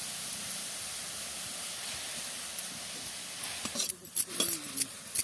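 Leafy greens (saag) sizzling steadily in a hot pan. About four seconds in, the sizzle cuts off and sharp clicks and short pitched sounds follow.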